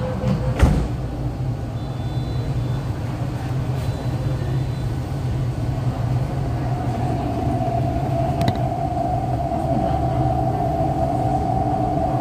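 MTR East Rail line R-Train electric multiple unit with a steady low rumble and a sharp thump about half a second in. From about six seconds in, a traction-motor whine builds and rises slightly in pitch as the train gets under way.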